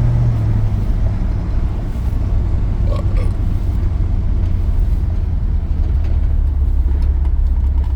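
1983 GMC C2500 pickup's V8 running while driving, heard from inside the cab with road noise: a steady low drone whose pitch drops about a second in and again around six seconds.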